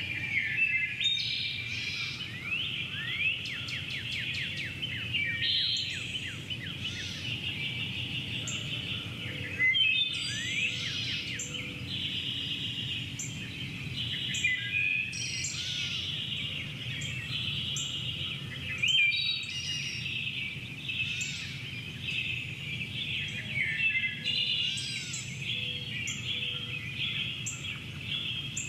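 Several birds chirping and singing in a dense, continuous chorus of short overlapping calls and trills, over a steady low background rumble.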